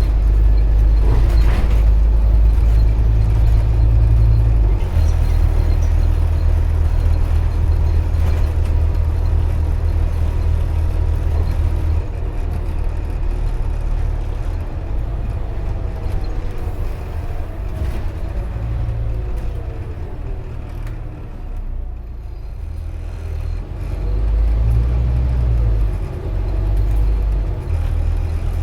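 Scania Omnicity N230UD double-decker bus in motion, heard from inside: its diesel engine runs with a heavy low rumble that steps up and down. A whine falls in pitch a little past the middle as the bus slows, and the engine picks up again near the end.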